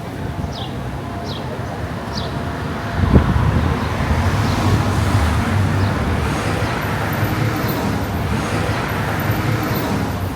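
City street traffic: a low vehicle rumble sets in with a thump about three seconds in and stays, over a wash of road noise. A few short high chirps sound in the first couple of seconds.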